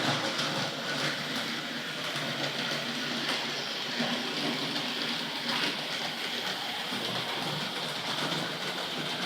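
Hornby Dublo GWR 0-6-2 tank locomotive running on three-rail model track: a steady whirring and rattling run with occasional faint clicks from the wheels over the track.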